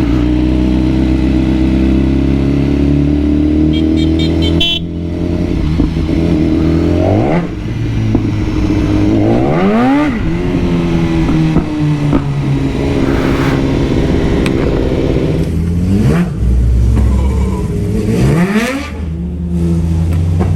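BMW superbike engine running under way, revved hard about four times, each rev a quick rising whine that falls back as it shifts or rolls off.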